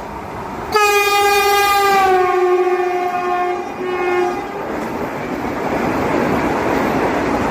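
Vande Bharat Express train sounding its horn about a second in: one long blast that drops slightly in pitch, broken off briefly near the end by a short second blast. Then the steady rushing noise of the train going by grows louder.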